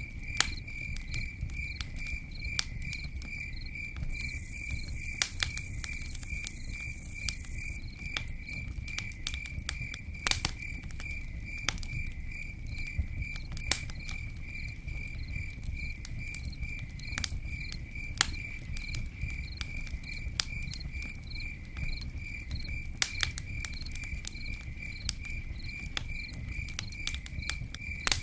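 Campfire burning with a low rumble and scattered sharp crackles and pops. Over it a cricket chirps in a steady, even rhythm. A brief hiss comes a few seconds in.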